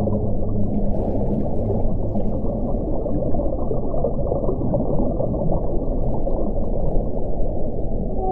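Wind blowing steadily as a deep, low rush. A low howling tone fades out in the first second or two.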